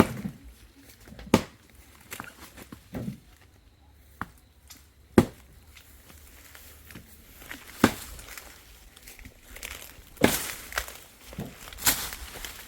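Hand chopping into a dry, hard tree trunk: about six sharp blows of a blade striking wood at irregular intervals, a second to a few seconds apart, with lighter knocks and rustling of leaves and brush in between.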